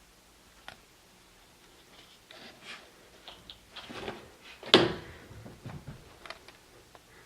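Scattered knocks, taps and scuffling from a Bengal kitten playing, with one loud thump a little past the middle.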